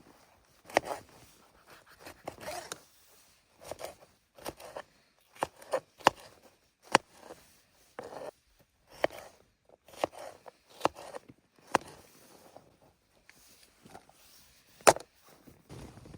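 Irregular sharp knocks and clicks, roughly one or two a second, with soft rustling between them; one knock a little before the end is the loudest.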